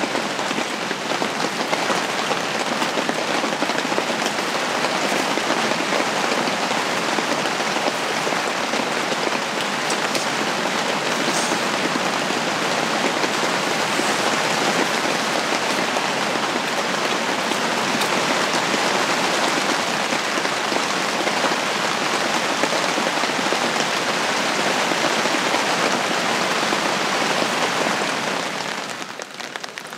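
Steady spring rain falling on a tent's fabric roof and walls, heard from inside the shelter as a dense, even patter that dips in level near the end.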